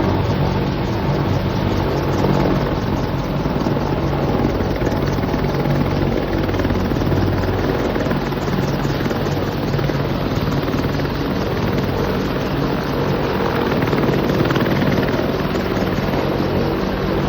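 Helicopter flying, with a steady, fast-pulsing rotor and engine noise that holds at the same level throughout.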